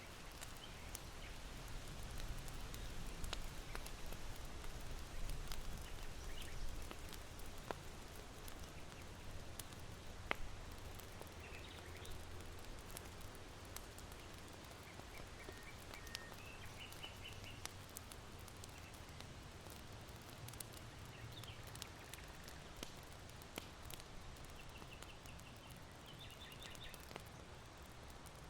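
Charcoal fire in an irori hearth crackling, with scattered sharp pops. Under it runs a low wind rumble, strongest in the first several seconds. Small birds chirp faintly in a few short series, the last near the end.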